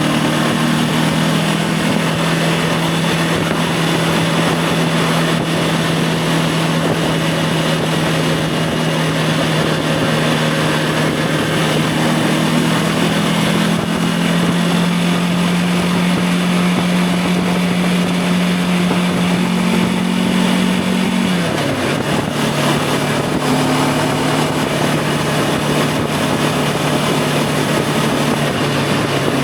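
Voge 525 DSX motorcycle's parallel-twin engine running steadily under way, with wind rushing past. The engine note holds, creeps slightly higher partway through, then drops sharply about two-thirds of the way in, as at a gear change, and settles at a lower pitch.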